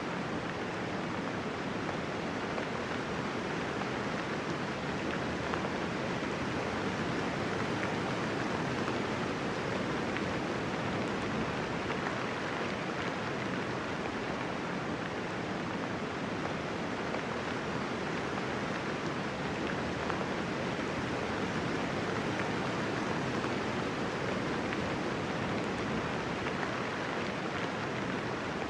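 Steady rain falling, a soft, even hiss with no thunder or distinct drops.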